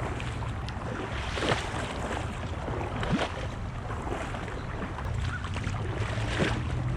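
Shallow creek water running over rocks, with wind rumbling on the microphone and three brief louder splashes from wading through the water.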